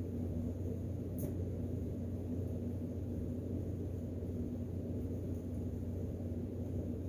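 Steady low background hum with a single light click about a second in.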